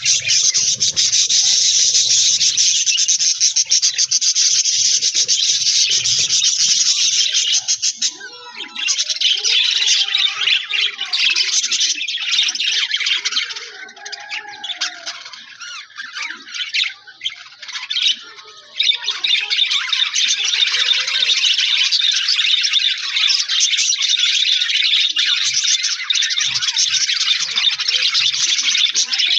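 A flock of budgerigars chattering and chirping in a dense, continuous chorus. It thins out for a few seconds around the middle, then comes back full.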